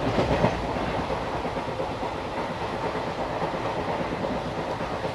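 Steady running noise of a moving express train heard from inside a sleeper-class coach: the rumble and rattle of the carriage and its wheels on the rails.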